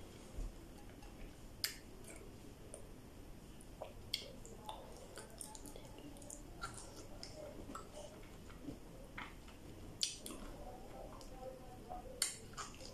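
A person biting and chewing okra pods: faint mouth sounds with scattered short clicks.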